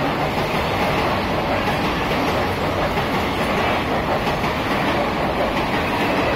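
Passenger coaches of an express train passing close by at speed: a steady, loud noise of wheels running over the rails.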